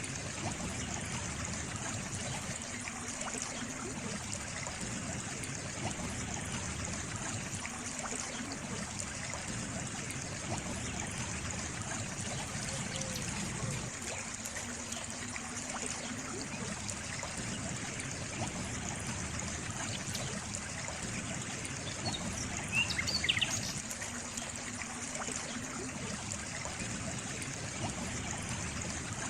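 Water trickling and running steadily, like a small stream. About three quarters of the way through, a bird gives a few brief high chirps.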